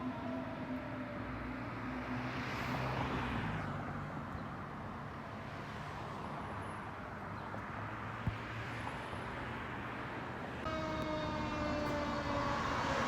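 Emergency vehicle siren tone falling in pitch and fading at the start, with vehicles passing by (two swells of tyre and engine noise), then a siren starting up abruptly about three-quarters of the way through, its pitch slowly falling.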